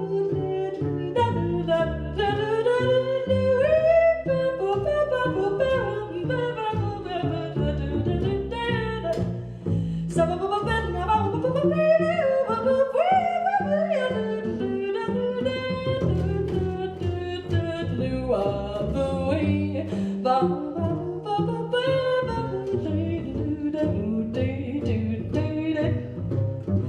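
Wordless jazz scat singing, a voice improvising quick gliding phrases, over a walking double bass line.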